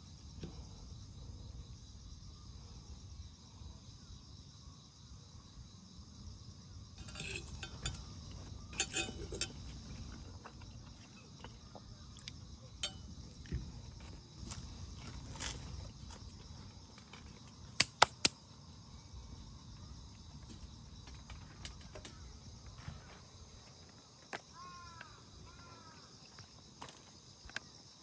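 Crickets and other insects chirping steadily, with scattered clinks and knocks of cooking gear, including three sharp clicks in quick succession about two-thirds of the way through. A bird gives a few short chirps near the end.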